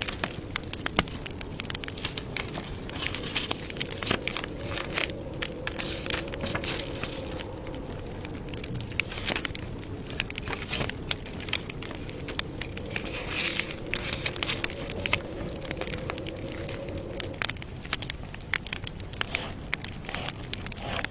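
Campfire burning with dense, irregular crackles and sharp pops of wood, over a steady low drone that stops a few seconds before the end.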